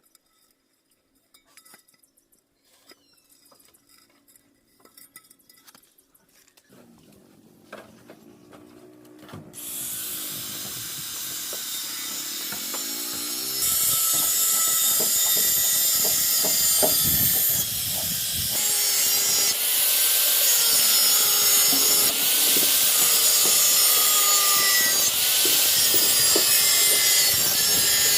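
Handheld power tool spinning up, then grinding a surface with a loud, continuous rasping hiss from about ten seconds in. It gets louder again near fourteen seconds, its pitch dipping and recovering every second or two as it bears down.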